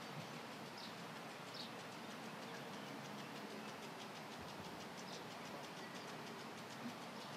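Faint short, high chirps of a bird, heard a few times over a steady background hiss.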